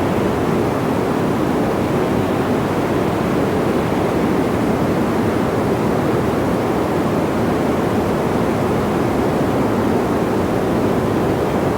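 Steady wind sound: an even, low rushing noise that holds at one level, with no gusts or changes.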